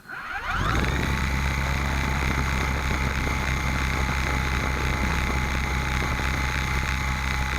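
Small RC helicopter's motor and rotor spinning up with a quick rising whine, then running at a steady pitch, heard very close from a camera mounted on the helicopter.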